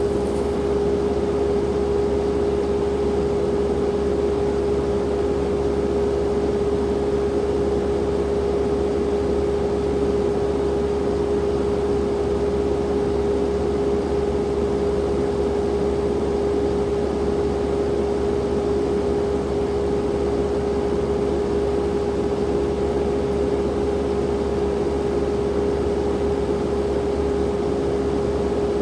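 Skid steer engine running steadily, a constant hum with a strong steady tone and no change in speed.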